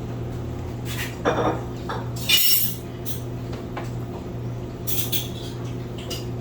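Cutlery clinking and scraping against plates and dishes, a few separate clinks and scrapes with the loudest about two and a half seconds in, over a steady low hum.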